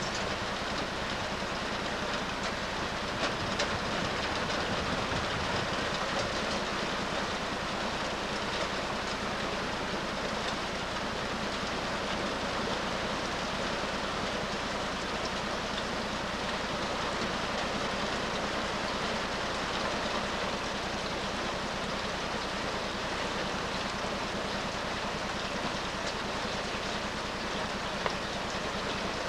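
Hard rain falling in a steady downpour, an even hiss with no breaks.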